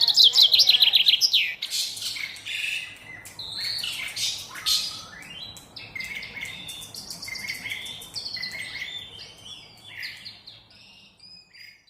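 A bird singing: a loud, fast run of chirps at the start, then a varied string of whistled notes and quick rising and falling sweeps that fade toward the end.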